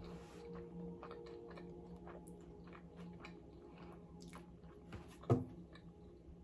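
Close-miked chewing of loaded nachos: many small crunches and wet mouth clicks from tortilla chips being chewed, with one louder low thump about five seconds in. A faint steady hum sits underneath.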